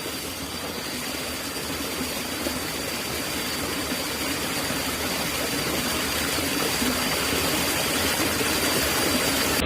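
Steady rushing noise with a thin, high, steady whine over it, growing slowly louder.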